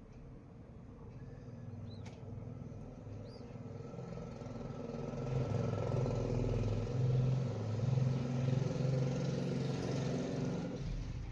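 A motor vehicle's engine running nearby, growing steadily louder for several seconds and then cutting off sharply near the end. A few faint short high chirps come in the first few seconds.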